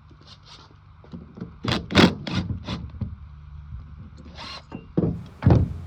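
Clicks, scrapes and knocks of hand tools and small metal parts as a lawn mower carburetor is taken off and opened up. The clicks come in a quick cluster about two seconds in, with a few heavier knocks near the end, over a faint steady low hum.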